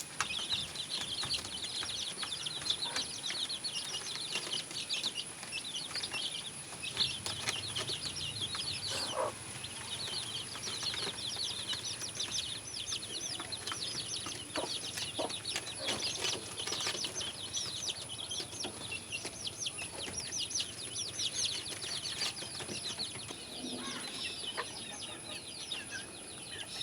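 Domestic chickens chirping and peeping continuously in quick, high-pitched notes, with an occasional soft cluck.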